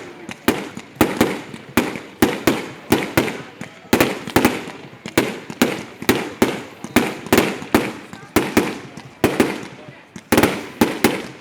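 Fireworks going off in a dense, irregular barrage of sharp bangs, two or three a second, each with a short tail.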